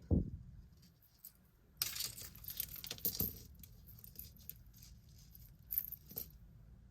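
Small pieces of metal costume jewelry jingling and clinking as they are handled and set down, with a few light clicks near the end.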